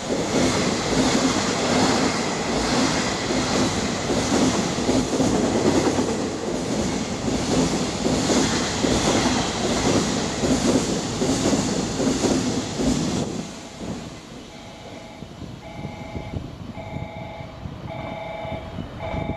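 Container wagons of a long freight train passing at speed through a station: a loud, steady rush and rumble with the rhythmic clickety-clack of wheels over rail joints, which falls away suddenly about 13 seconds in as the last wagon clears. After that a repeating electronic two-tone beep sounds about once a second.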